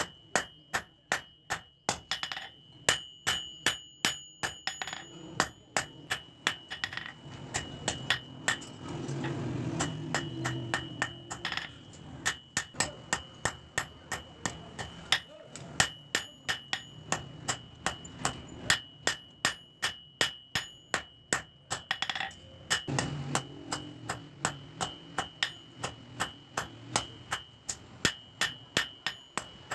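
Blacksmith's hand hammer striking steel on an anvil, about two to three blows a second, with a high ringing between blows: forging bearing steel into a knife.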